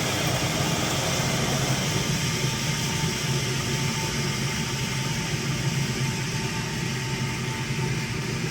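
Blanchard No. 11 rotary surface grinder's 15 hp spindle drive and grinding wheel coasting down after being switched off: a steady mechanical hum whose middle range thins out about two seconds in.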